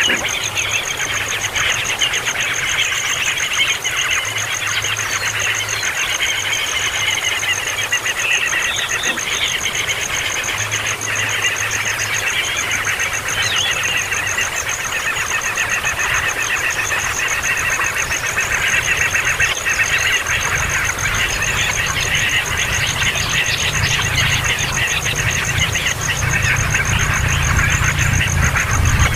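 Baby bird chirping noisily and without let-up: a dense run of rapid, high calls.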